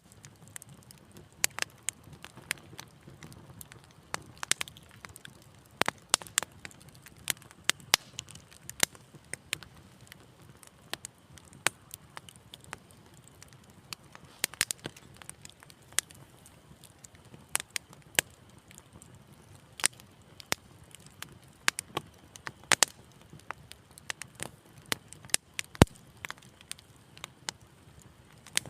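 Wood fire in a fireplace crackling: irregular sharp pops and snaps, a few each second and varying in loudness, over a faint low rumble of the flames.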